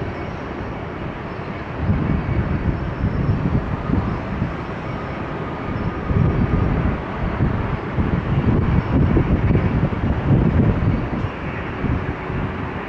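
Jet airliner engine rumble, uneven and gusty, mixed with wind buffeting the microphone.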